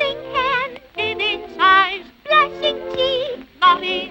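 High-pitched singing with strong vibrato over orchestral accompaniment, in four short phrases.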